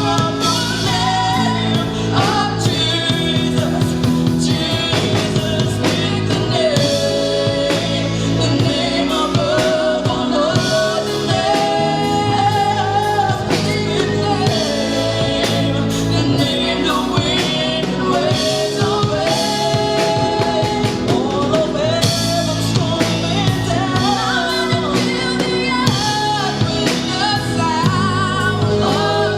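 Gospel worship song: singing over a band accompaniment with bass and drums.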